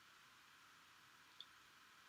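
Near silence: faint steady hiss with one tiny click about one and a half seconds in.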